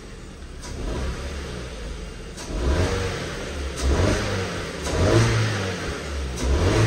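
Ford Fiesta petrol engine running and being blipped on the throttle, rising and falling about four times in the second half. It revs up cleanly and isn't sluggish, though misfire codes for cylinders 1 and 2 are stored.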